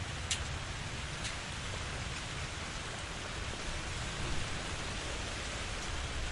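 Steady rainfall, a dense even patter with a low rumble underneath and a few sharper drip ticks near the start.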